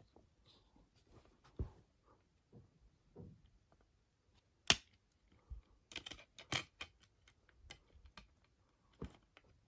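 A CD and its packaging being handled: irregular small clicks and taps. The sharpest click comes just under five seconds in, and a quick run of clicks follows about a second later.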